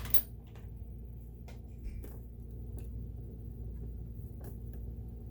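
A few light clicks and taps of hand tools and small metal parts on a sewing machine as its needle plate is being removed, over a steady low hum.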